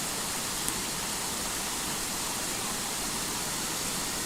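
Steady rushing of flowing water, like a small waterfall or stream, even and unbroken, with a faint click about a second in.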